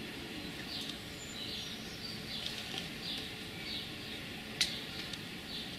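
A small bird singing a short, high note again and again, about every half second, over a steady low background noise. A single sharp click comes a little after four and a half seconds in.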